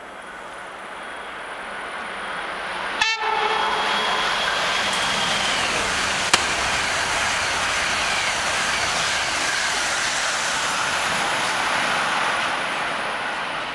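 Sapsan (Siemens Velaro RUS) high-speed electric train approaching and passing at speed. Its rush grows, a short horn blast sounds about three seconds in, and a high tone falls in pitch just after. Then comes a loud, steady rush of the passing cars, easing off near the end as the train recedes.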